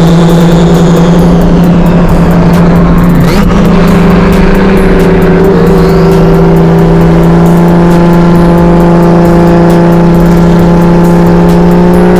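Car engine running at a steady speed, a held drone whose pitch steps up slightly about three seconds in.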